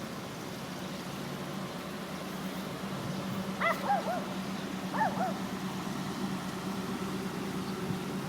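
A dog barking in two short bursts of yelping barks, about three and a half and five seconds in, over a steady low hum.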